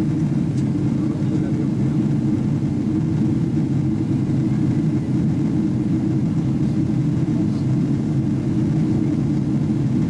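Steady cabin drone inside a Boeing 777-300ER in flight: engine and airflow noise, a constant low rumble.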